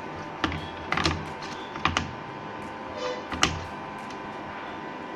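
Several sharp plastic clicks and taps as a wire connector is handled and pressed onto the header of an induction cooker's control board, over a faint steady hum.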